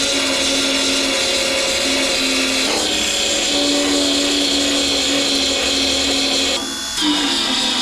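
High-speed power tool whining steadily under load on the truck bedside's sheet metal; about six and a half seconds in it briefly lets off, then spins back up.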